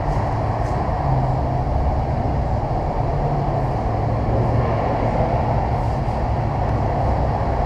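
Steady low mechanical hum and rumble with no letup.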